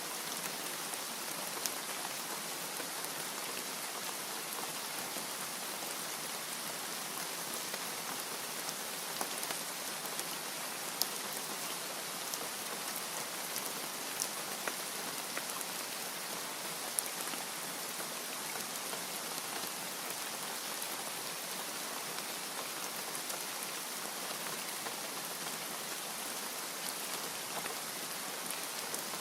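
Steady rain falling as an even hiss, with a few sharper ticks here and there.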